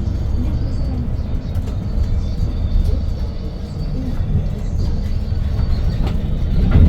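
Cabin noise inside a 2022 Hyundai New Super Aerocity city bus with its C6AF Q290 CNG engine running: a steady low rumble with scattered rattles and clicks, and a louder knock near the end.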